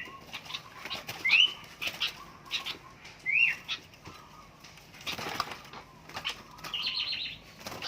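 Sooty-headed bulbuls calling: a short rising-and-falling note repeated every second or so, a burst of wing fluttering about five seconds in, and a harsher chattering call near the end.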